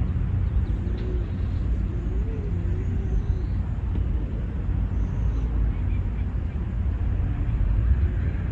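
Outdoor park ambience: a steady low rumble throughout, with a faint distant voice from about half a second to three seconds in.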